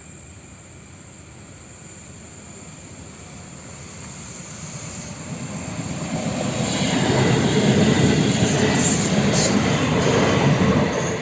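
PESA Elf electric multiple unit approaching and passing, its rumble growing steadily louder and staying loud from about seven seconds in until it drops off near the end.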